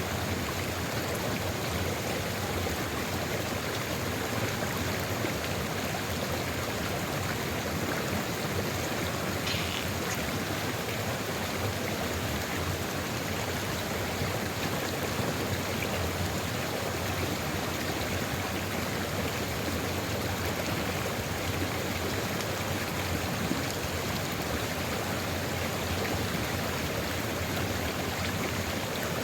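Sulfur river flowing steadily: a continuous, even rush of running water.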